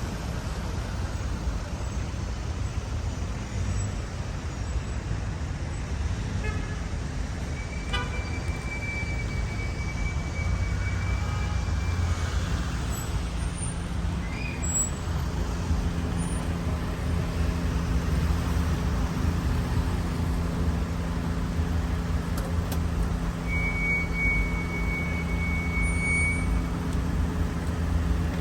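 A car driving through city traffic: a steady low rumble of engine and road noise. Two long, high, steady tones are heard, one about a third of the way in and one near the end.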